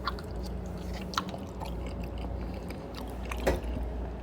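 A person chewing food close to the microphone, with scattered short wet clicks and smacks of the mouth over a steady low hum.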